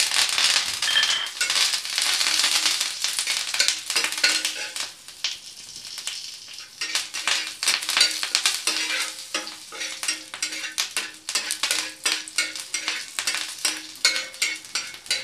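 Curry leaves dropped into hot oil on a tawa sizzle hard, starting suddenly; the sizzle dies down after about six seconds. A spatula then scrapes and taps repeatedly across the tawa, stirring the mustard-seed, dried-chilli and curry-leaf tempering (tadka).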